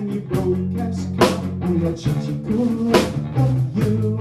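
Live rock band playing a stretch without vocals: a drum kit with sharp snare hits on a regular beat over sustained bass notes.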